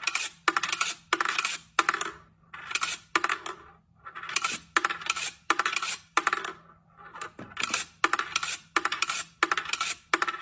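Short rattling noises repeated two to three times a second, each a brief burst with small gaps between.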